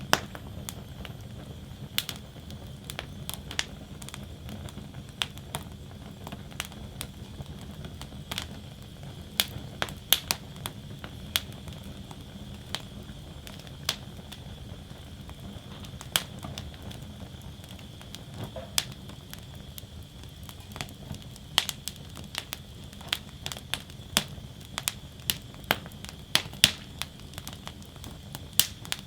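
Wood fire burning in a metal fire basket: a steady low rush of flames with sharp, irregular crackles and pops of burning wood, coming more often in the second half.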